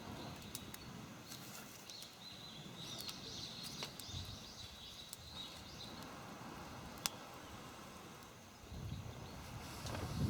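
Outdoor night ambience: a high, wavering, insect-like trill for a few seconds in the first half, a few sharp single clicks, over a low, uneven rushing background.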